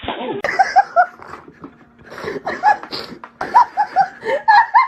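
A person laughing hard in short repeated bursts, starting about half a second in.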